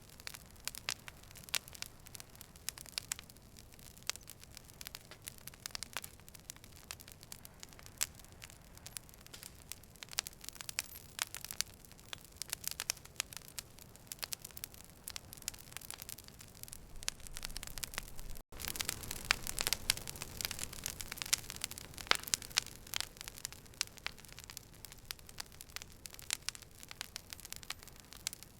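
Campfire crackling, with sharp pops scattered over a low hiss. A little past the middle the sound drops out for a split second, and after that the crackling is busier and louder.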